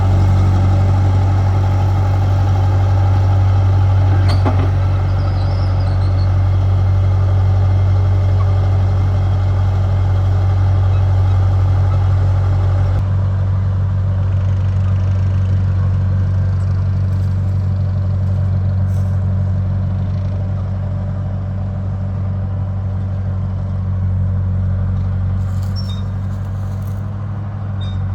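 Bulldozer's diesel engine running steadily with a deep, even hum; about thirteen seconds in its higher-pitched part drops away and it runs a little quieter.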